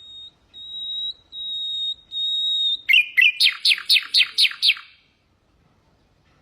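Common nightingale singing one phrase: four long pure whistles on one pitch, each louder than the last, then a fast run of about ten sharp falling notes that stops about five seconds in.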